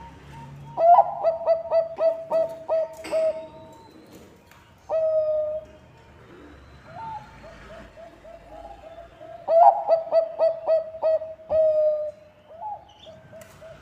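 Zebra dove (Bangkok-type perkutut) cooing: a quick run of staccato coo notes ending in a longer held note, given twice, about a second in and again near ten seconds, with a single drawn-out coo between them.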